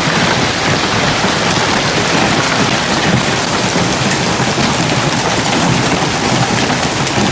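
Hailstones and heavy rain pounding down together, a dense, steady clatter of countless small hits.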